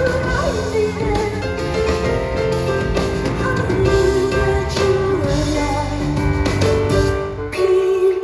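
Live band music recorded from the audience: an instrumental stretch of a piano-led pop song, with held keyboard notes over bass and drums.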